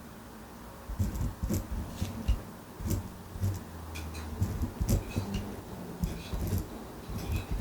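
Desk study sounds: irregular light knocks, taps and clicks of a ballpoint pen on a notebook and of books being handled, with a brief low hum about four seconds in.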